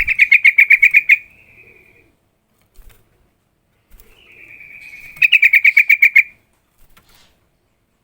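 Yellow-vented bulbul (trucukan) singing: two loud phrases, each a rapid run of about ten notes lasting about a second. The first trails off into a softer held note; the second is led in by a softer rising note.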